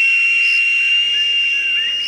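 A single long, steady high-pitched whistle held at one pitch, with small bird chirps in the background.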